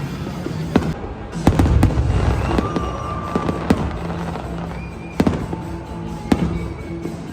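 Fireworks show: aerial shells going off in sharp, irregular bangs about once a second, some with a crackle, over music.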